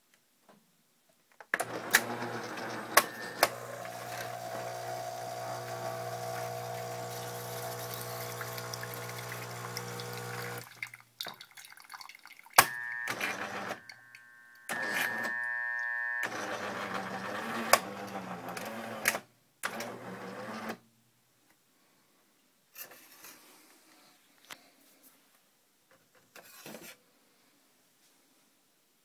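Jura-Capresso E8 fully automatic coffee machine running through a cycle. A steady hum with a few clicks lasts about nine seconds, then a series of shorter runs follows, one with a higher steady tone, and these stop about twenty seconds in. Faint scattered sounds follow near the end.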